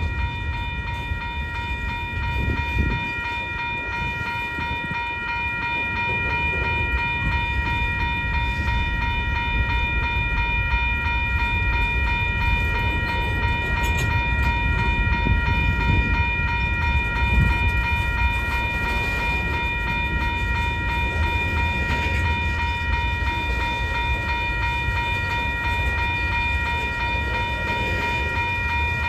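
Slow freight train rolling past with a steady low rumble, under a constant high-pitched ringing tone.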